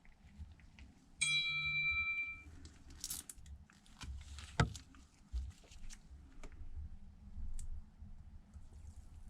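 Small clicks and taps of tools and parts being handled on a repair bench. A steady high tone sounds for about a second a little over a second in, and a single sharp click comes about halfway through.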